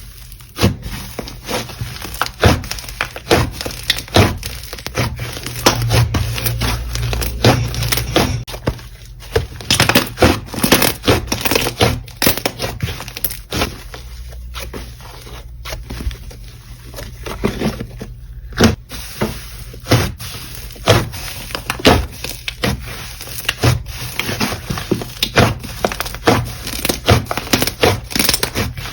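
Hands squeezing, pressing and stretching slime, giving an irregular stream of crackling clicks and pops.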